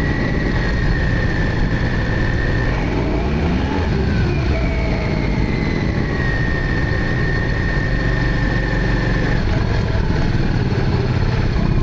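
Motorcycle engine running steadily while being ridden, with a thin high whine over it that drops away and returns a couple of times.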